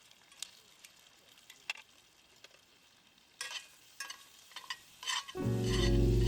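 Campfire crackling with scattered sharp pops, growing busier about halfway through. Near the end, steady background music comes in and drowns it.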